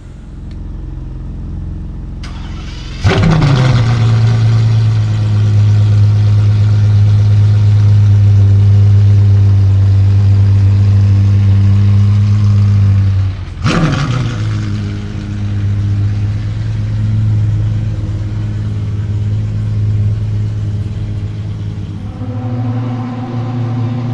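Apollo IE hypercar's naturally aspirated V12 starting up. It catches about three seconds in with a sharp flare of revs, then drops to a steady idle. It is blipped once more about halfway through and settles back to idle.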